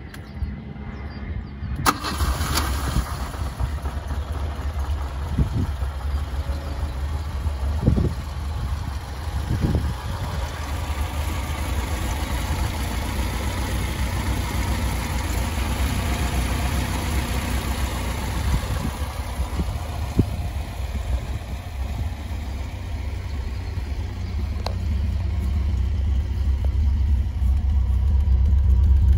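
1964 Alfa Romeo Sprint GT's twin-cam inline-four starting, catching about two seconds in, then running steadily with a few short revs in the first ten seconds. It grows louder near the end, heard at the tailpipe.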